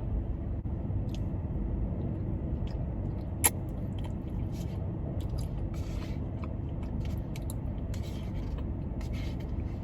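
Someone chewing a mouthful of Korean spicy rice cakes (tteokbokki), with soft, scattered mouth smacks and one sharp click about three and a half seconds in, over the steady low hum of a car's air conditioning.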